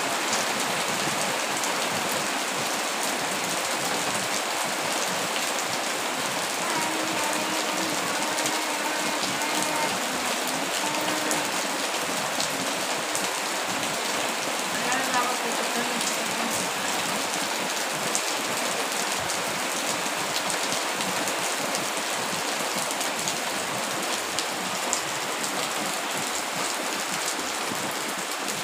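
Steady rain falling on a wet street, an even hiss that holds without let-up.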